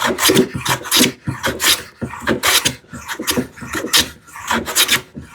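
A No. 4 smoothing plane with a fine set taking quick, short strokes over the wood, about three a second, each a brief scraping swish as it takes light cleanup shavings.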